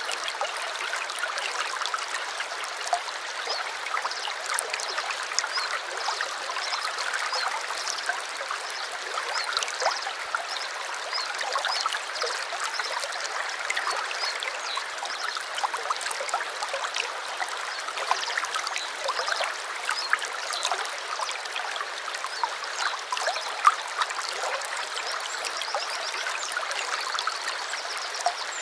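Small stream babbling and trickling over stones, a steady light splashing with many small droplet flecks and no deep rumble.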